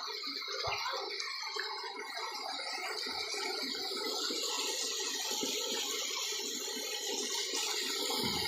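Steady rush of running water, an even hiss that grows slightly louder toward the end.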